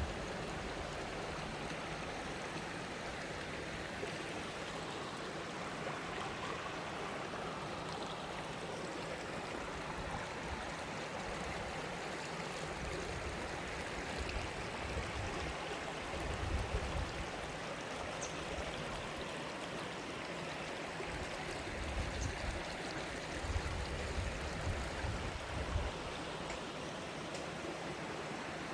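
Mountain valley stream flowing steadily over rocks, a constant rushing and gurgling of water, with occasional low rumbles underneath.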